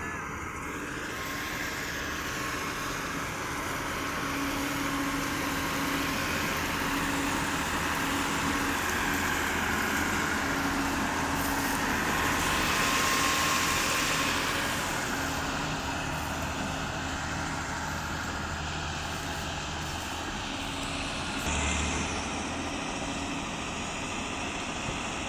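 Combine harvester's engine and machinery running steadily under harvesting load, growing louder to a peak about halfway through, then easing back.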